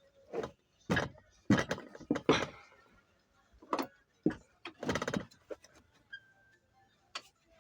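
Irregular knocks and clatters of metal tools and engine parts being handled and set down during engine assembly, about a dozen sharp hits at uneven intervals, bunched near the start and again around the middle.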